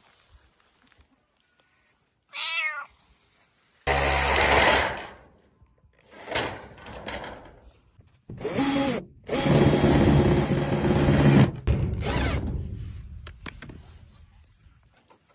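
A cat meowing in short calls, among several loud bursts of other noise that start and stop abruptly.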